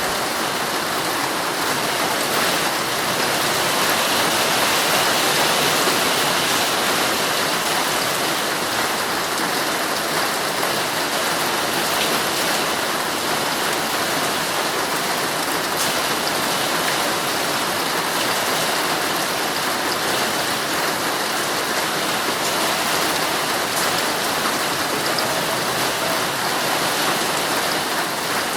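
Heavy rain falling steadily on a tent's fabric, an even, unbroken hiss with faint ticks of individual drops.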